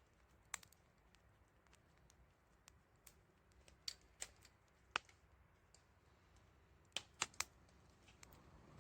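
Campfire wood crackling: a handful of sharp, isolated pops and snaps over near silence, three of them close together near the end.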